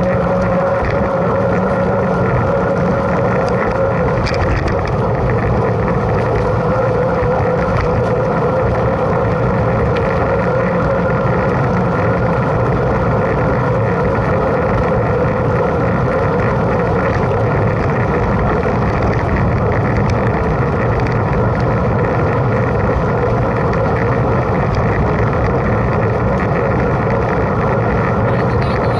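Mountain bike riding noise picked up by a camera on the rider or bike: steady rushing wind and rolling-tyre noise, with a constant hum and no break.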